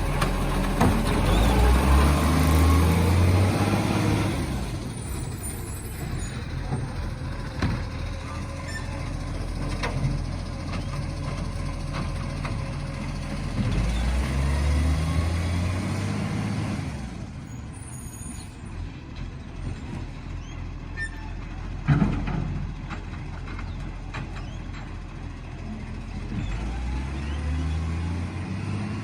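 Garbage truck's diesel engine running and revving up three times, with a hiss of air over the first few seconds and a sharp bang about two-thirds of the way through.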